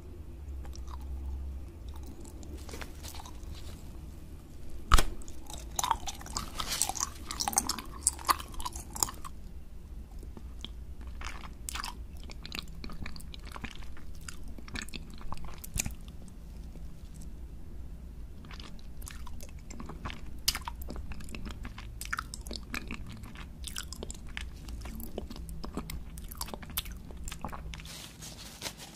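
Close-miked eating sounds: biting and chewing soft gummy candy and jelly, a run of mouth clicks and crackles that is busiest about six to nine seconds in, over a steady low hum.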